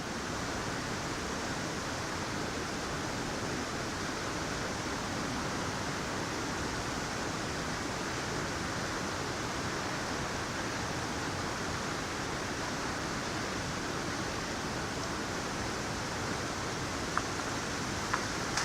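Waterfall and creek rushing steadily with high water, with a few faint clicks near the end.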